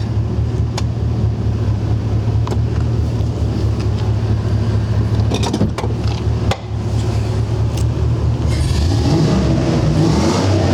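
A 2004 GMC Sierra 1500 pickup's engine idling steadily, with a few sharp clicks or knocks along the way. Near the end it gets louder, with a hiss and shifting pitch.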